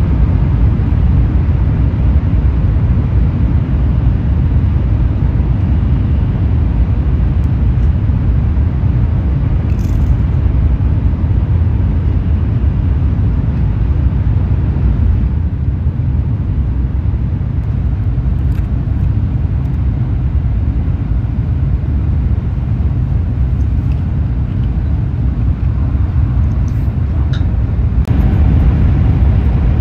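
Steady low rumble of a Shinkansen bullet train running at speed, heard inside the passenger cabin, with a few faint clicks.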